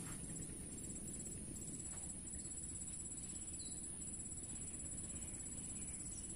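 Insects shrilling with a steady high-pitched hum and a fast trill that breaks off and resumes, over a low rumble. A single short bird chirp sounds about three and a half seconds in.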